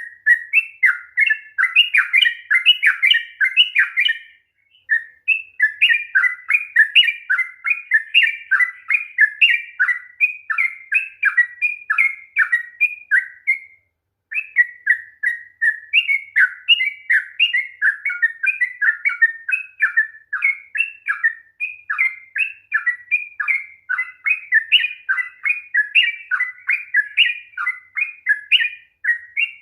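Sooty-headed bulbul (trucukan) singing a long, fast run of chirping phrases, the "ropel panjang" song used to stir silent caged bulbuls into singing. It breaks off briefly about four seconds in and again about fourteen seconds in.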